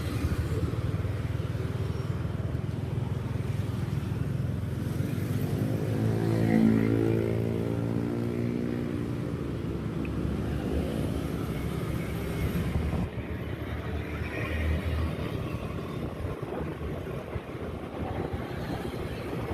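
Motorcycle riding in city traffic: steady engine and road noise. About six to eight seconds in, a louder engine rises and then falls in pitch.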